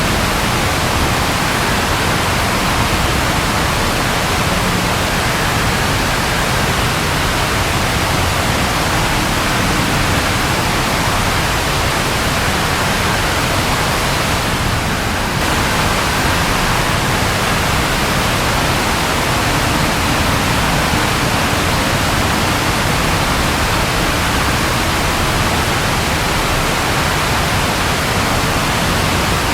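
Steady rainfall, a dense even hiss with no thunder heard. It dips slightly for a moment about halfway through.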